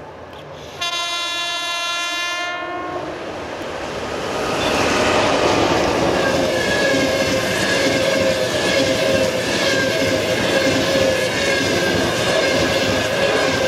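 EP1M electric locomotive sounds its horn once, a steady blast of about two seconds. Then the fast passenger train passes at speed: the coaches rush by with loud, steady rolling noise and a steady whine.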